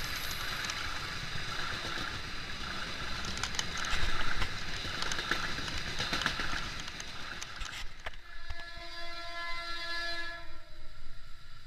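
Passenger train coaches rushing past close by, steel wheels on the rails with clicks from the rail joints. Then an approaching locomotive sounds its horn in one steady, multi-tone blast of about two seconds, starting a little past the middle.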